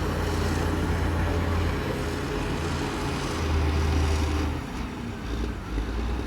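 Heavy diesel engine of a bulldozer running under load, its low drone rising and falling in pitch a few times as the revs change.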